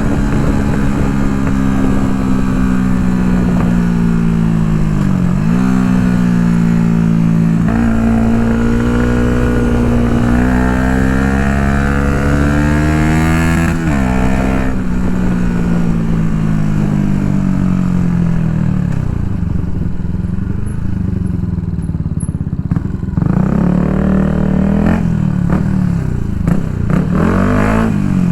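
Yamaha MT-125's single-cylinder four-stroke engine through an Akrapovic full exhaust system, riding under way: the revs fall for the first few seconds, climb steadily for several seconds, then drop sharply about halfway through at a gear change, and rise and fall again a few times near the end.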